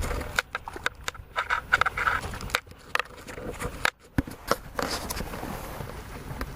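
Handling noise on a small camera's microphone: scrapes, rubbing and sharp clicks as the camera is moved about, with brief moments where the sound nearly drops out.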